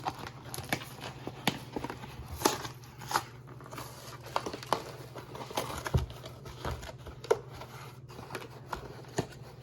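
A frozen pizza box being opened by hand: cardboard tearing and plastic wrap crinkling in irregular rustles and clicks, over a low steady hum.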